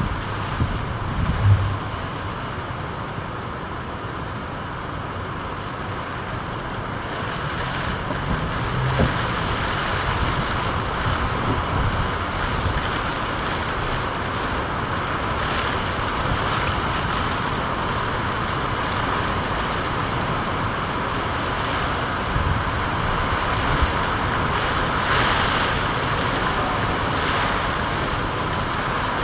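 Steady rain, an even hiss, with a couple of brief low rumbles in the first ten seconds.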